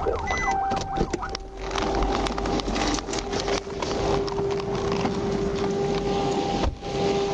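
Police siren yelping fast for about the first second and a half, then stopping. Loud crackling and rustling takes over, with a steady tone running underneath.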